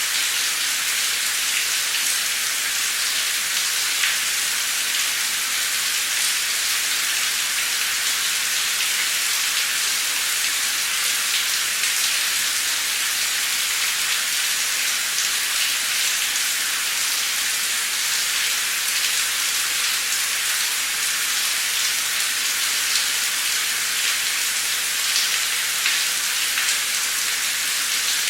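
Heavy torrential rain pouring down steadily: a dense, even hiss of rainfall with scattered sharper drop hits.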